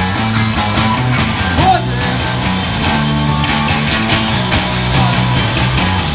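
Live rock band playing an instrumental stretch between sung lines: electric guitar, bass and drums with a steady beat.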